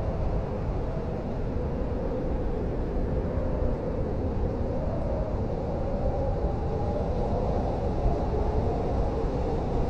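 Blizzard wind blowing steadily, with a deep rumble underneath and a whistling tone that slowly wavers up and down in pitch.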